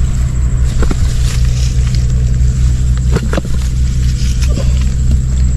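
An engine running steadily with a low, even hum, with a few short clicks or knocks about a second in and just after three seconds.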